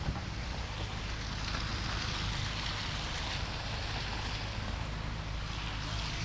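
Blizzard wind blowing steadily, with a low rumble of wind on the microphone under an even hiss that grows a little stronger about a second and a half in.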